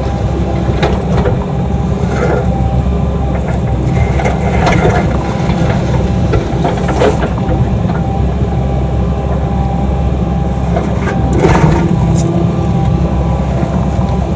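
Excavator's diesel engine running steadily under hydraulic load, with several scrapes and knocks of the bucket digging into dirt, the loudest a little before the end.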